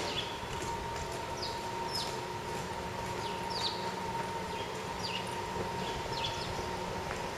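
Small birds chirping: short, quick notes that fall in pitch, repeating every second or so over a steady background hum with a faint even whine.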